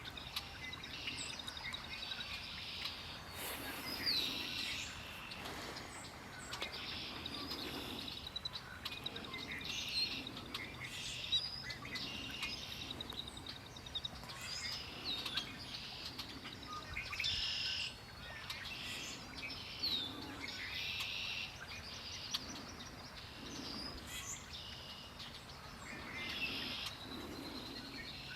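Several wild birds singing and calling at once: overlapping chirps, short songs and a rapid even trill of several seconds, over a steady background hiss.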